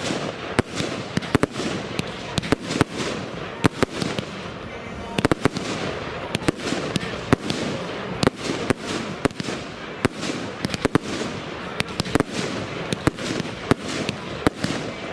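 Evolution 'Fast or Furious 4' consumer firework battery firing shot after shot: sharp bangs a few times a second, irregularly spaced, over a continuous rush of noise from the burning effects.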